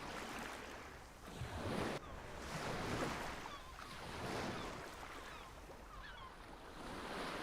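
Sea waves washing in repeated swells, with short high bird chirps over them.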